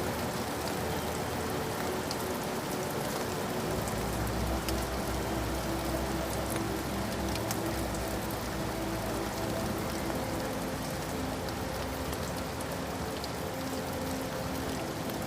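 Steady rain falling: an even, dense hiss with scattered sharp drop ticks.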